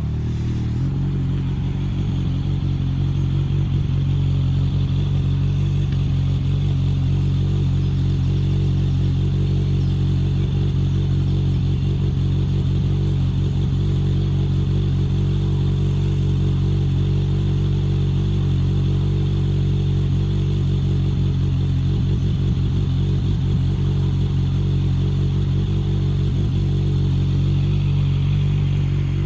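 An engine idling steadily, a constant low hum with a faint high tone above it.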